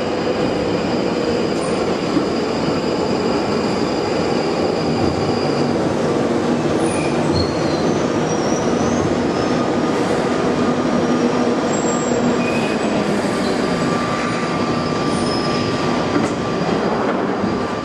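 London Underground train running through a tunnel: a steady, loud rumble of wheels on rail, with thin high squeals from the wheels now and then.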